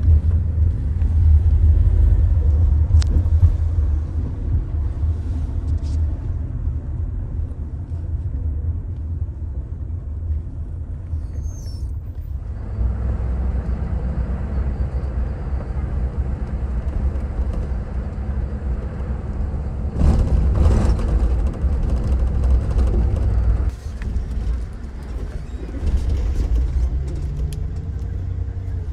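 Low, steady rumble of motor traffic, changing abruptly about twelve seconds in and again about three quarters of the way through.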